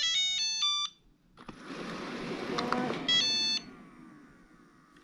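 Robot vacuum cleaner playing a short electronic melody of several beeped notes as it is sent back to its dock, then a rushing noise of its motor running with a second short beep tune about three seconds in, the noise fading away near the end.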